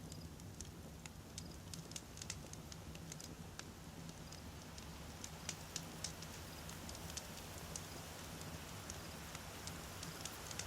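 Wood campfire crackling, with irregular sharp pops and snaps over a low, steady rush of flame.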